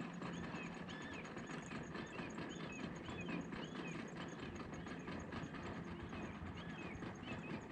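Faint outdoor ambience: short chirps repeating every half second or so, a fast, even high-pitched ticking, and a low rumble underneath.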